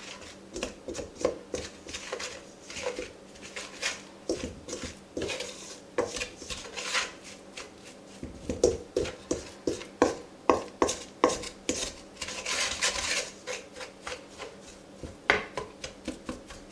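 A utensil stirring gelatin mixed with a little cold water in a bowl: irregular scraping and clinking against the bowl, a few strikes ringing briefly.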